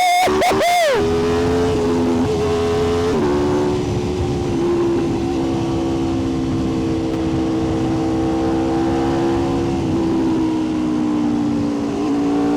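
Sport motorcycle engine revving high at the start and dropping back, then running steadily at cruising speed, with small shifts in pitch a few times.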